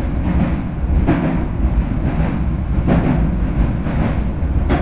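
Interior running noise of a Keisei 3100-series electric train car under way: a steady low rumble with a brief clack about every two seconds.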